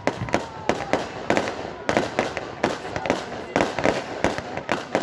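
Fireworks display: aerial shells bursting in a rapid, irregular run of bangs, about three a second.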